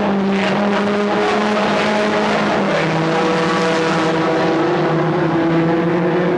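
Several stock car engines running together at racing speed, a loud steady drone of overlapping engine notes at different pitches that drift up and down slightly.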